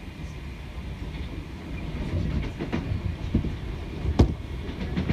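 Merseyrail electric passenger train heard from inside the carriage while running: a steady low rumble from the wheels on the track. In the second half come several sharp clicks and knocks as the wheels pass over the rails, the loudest about four seconds in.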